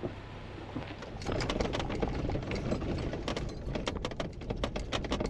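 Off-road vehicle driving slowly over a rough gravel riverbed: a low steady rumble that gets louder about a second in, with many sharp clicks and crunches of stones under the tyres.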